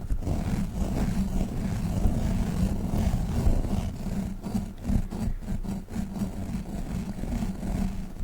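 Globbles, sticky gel toy balls, being squished and handled, giving a dense, low rumbling texture with a few sharper sticky taps about halfway through.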